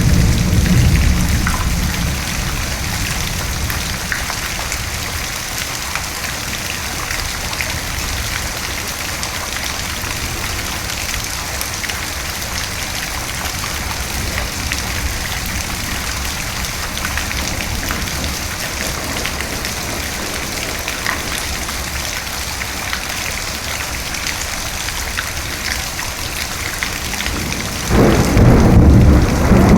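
Steady rain falling, an even hiss of drops throughout. A low thunder rumble fades out over the first couple of seconds, and a loud new rumble of thunder breaks in suddenly near the end.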